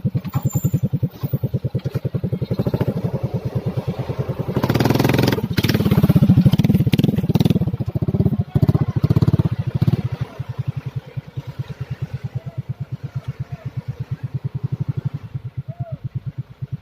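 Hino heavy-duty dump truck's diesel engine running with a steady, low, rapidly pulsing throb. It grows louder for a few seconds about five seconds in, then settles back.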